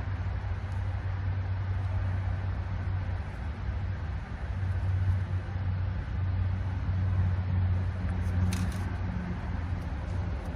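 A steady low mechanical drone, like a motor running, rising and falling a little in loudness, with a brief rattle of clicks near the end.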